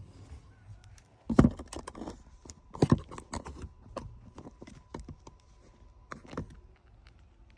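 Irregular plastic clicks and knocks of an instrument cluster and dash parts being handled and fitted, with two heavier knocks about one and a half and three seconds in.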